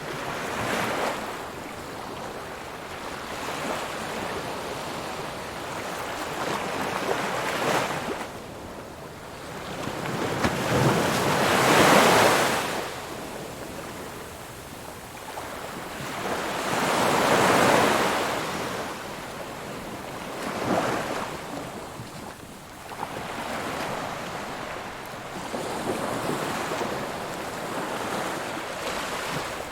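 Ocean waves breaking on a shore, each one swelling to a crash and washing back, about every four to six seconds. The loudest break comes about twelve seconds in, another near the middle.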